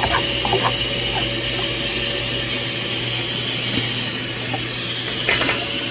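Steady hiss with a low hum beneath it and a few faint clicks, typical of kitchen background noise such as a fan or something cooking on the stove.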